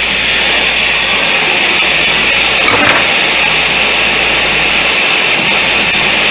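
Gas torch burning with a steady, loud hissing roar, heating steel for bending. A faint knock about halfway through.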